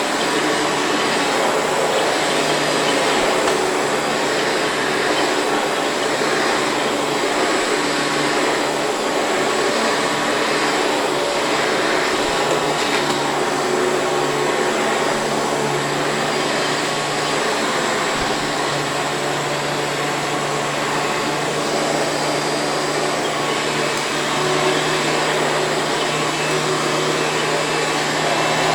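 Hoover Preferred U5095-930 upright vacuum cleaner running steadily as it vacuums up sand, its motor giving a continuous whooshing roar with a steady low hum.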